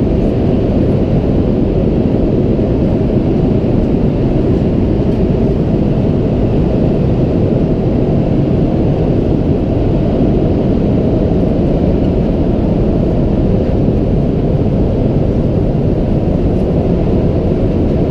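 Steady low rumble of cabin noise inside an Airbus A330-300 airliner: engine and airflow noise heard from the passenger cabin, even and unbroken.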